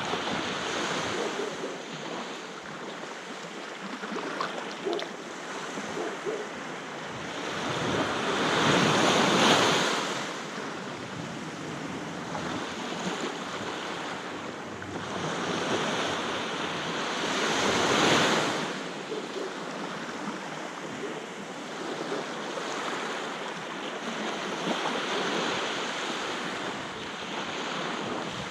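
Sea waves washing onto a beach, a steady surf wash with two bigger waves swelling and breaking about a third of the way in and again past the middle, then receding. Some wind is heard on the microphone.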